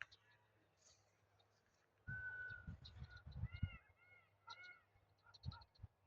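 Faint birdsong: a short steady whistle, then a series of quick arched chirping notes repeated several times, with high thin ticking calls among them and a few low thumps.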